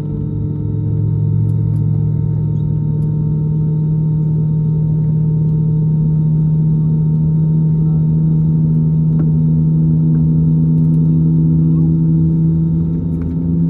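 Airbus A320neo's CFM LEAP-1A engines heard inside the cabin as a steady low hum. It grows a little louder over the first couple of seconds, and some of its tones shift slightly upward about halfway through.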